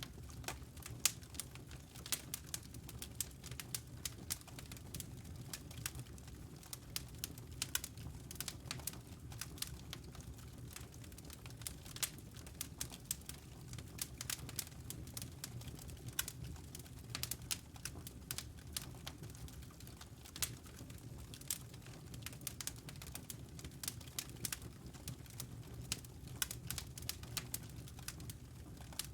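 Wood fire crackling in a stone fireplace, with frequent irregular sharp snaps and pops over a steady low rumble.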